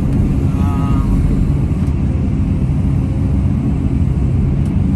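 Diesel engine of a Cat 329 excavator running steadily, a loud low engine noise with no change in pace.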